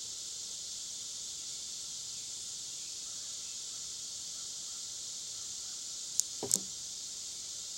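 Steady high-pitched insect chorus, with two sharp knocks close together near the end.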